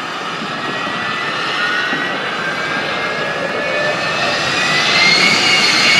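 Jet engine on a truck running with a steady rushing roar and a high whine that slowly rises in pitch while it grows louder toward the end.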